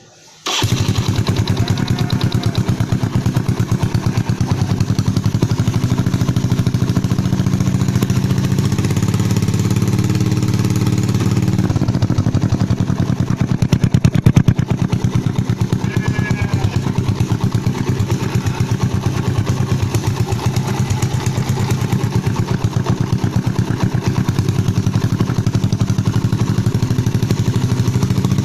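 Yamaha Jupiter Z motorcycle's single-cylinder four-stroke engine running through a Kou Cobra aftermarket racing exhaust, starting about half a second in and then running steadily, with a brief rise in revs around the middle.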